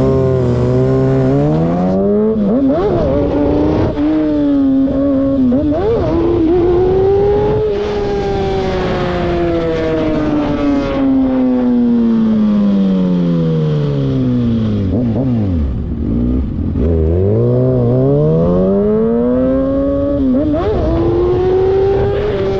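A car engine revving hard and held high, its pitch climbing, sinking slowly back almost to idle, then climbing again in long sweeps. There is a brief stutter near the top about three and five seconds in.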